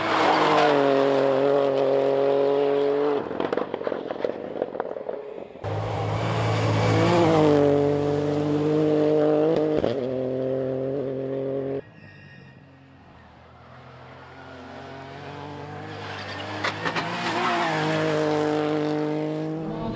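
Rally cars driven hard on a stage, engines running at high revs with quick gear changes, several passes one after another. A short lull comes about twelve seconds in before another car approaches and grows louder.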